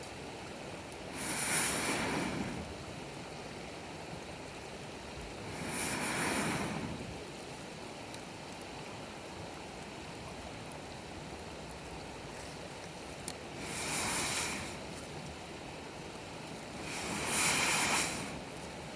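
Waves washing onto the shore four times, each a rush that swells and fades over about a second, over a steady background hiss, with one small click partway through.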